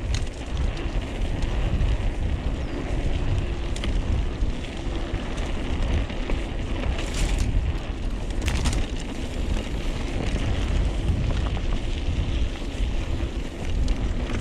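Wind buffeting the microphone over the rolling and rattling of a mountain bike descending a dirt trail, with a couple of sharp knocks partway through.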